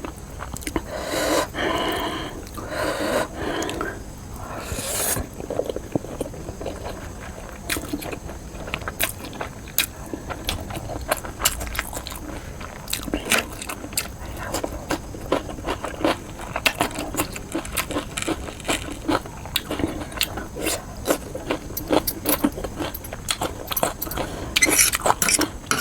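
Close-miked eating sounds of spicy noodles and fried momos: chewing with a steady run of small wet clicks and crackles, and louder, noisier bites in the first few seconds and again near the end.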